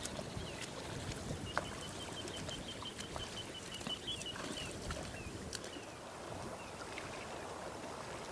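A small bird singing outdoors: a rapid trill of short high notes, about eight a second, lasting a couple of seconds, with a few separate falling chirps before and after. A few faint scattered clicks sound under a low steady outdoor background.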